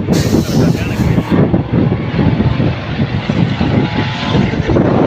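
Heavy race trucks' diesel engines running hard as they pass on the circuit, a loud, steady engine noise, with a brief hiss in the first second or so.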